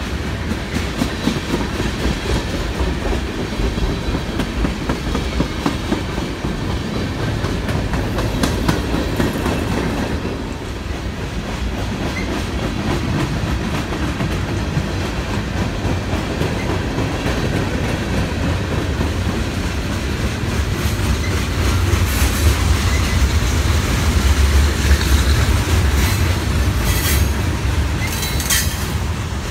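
Passing freight train of tank cars and flatcars: a steady rumble, with the steel wheels clicking rhythmically over rail joints. The rumble grows louder late on, with a few brief high wheel squeals near the end.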